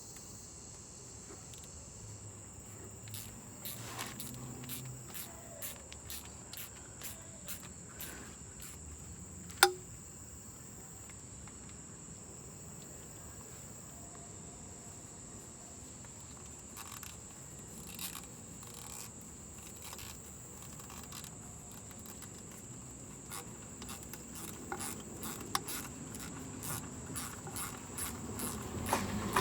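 Irregular light clicks and clinks of hand tools, a ratchet working the transmission pan bolts, with one sharp click about ten seconds in. Crickets trill steadily underneath.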